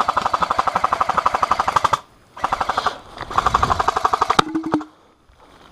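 Airsoft electric guns firing full-auto covering fire in three long, rapid bursts, with a sharp crack near the end of the last burst.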